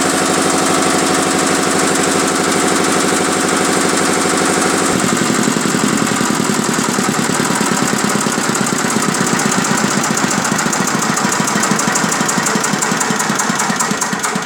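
Single-cylinder diesel engine running steadily. About five seconds in, the sound changes abruptly to a more distinct, rapid, even beat of its firing strokes.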